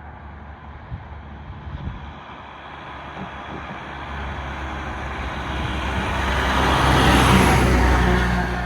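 A fire truck driving past, its engine and tyre noise building to a peak about seven seconds in, then easing as it moves away.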